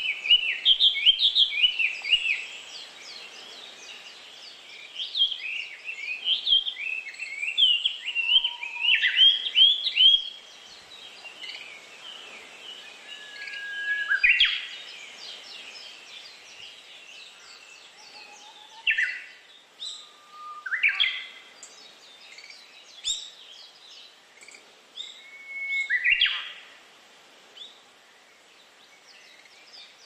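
Several birds singing and calling, busy rapid chirping in the first ten seconds, then scattered separate calls and whistled notes over a faint steady background hiss.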